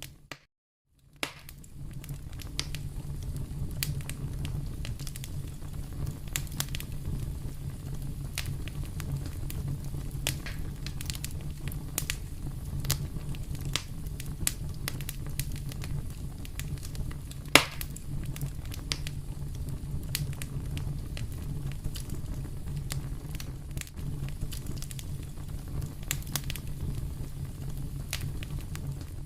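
Wood fire crackling in a fireplace: a steady low rumble of flames with many small sharp pops. One much louder pop about two-thirds of the way through. The fire sound cuts in after about a second of silence at the start.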